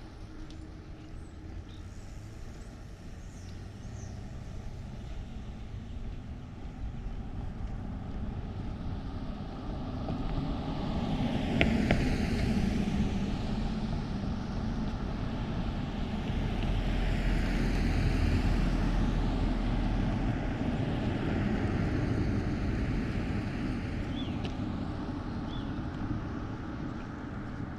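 Cars passing by, the traffic noise swelling to a peak about twelve seconds in and again around eighteen seconds before slowly fading. There is one short sharp click near the first peak and a few faint high chirps.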